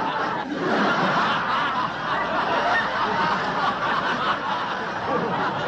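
Audience laughter: many people laughing together, dense and steady in level.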